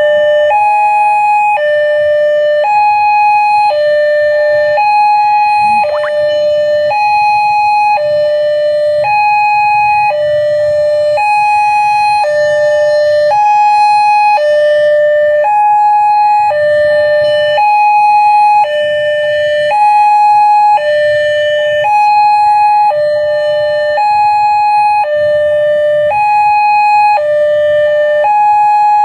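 Railway level-crossing warning alarm: an electronic two-tone signal alternating high and low about once a second, sounding while the crossing is closed for an approaching train. A faint low rumble lies under it.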